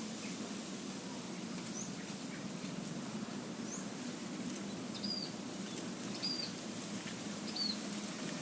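Several short, high chirps from a small bird, growing clearer in the second half, over a steady hiss and low hum of outdoor background noise; none of it is the low cooing of a zebra dove.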